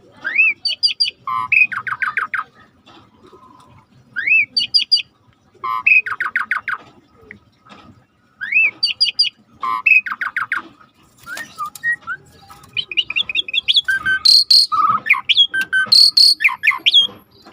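A starling singing: a phrase repeated about every four seconds, each a rising whistled note followed by a quick run of chattering notes. In the last third this gives way to a denser, busier stretch of varied whistles and calls.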